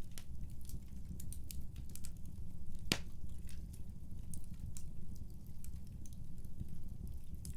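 Wood fire burning in a fireplace: a steady low rumble under irregular crackles and pops, with one sharp, louder pop about three seconds in.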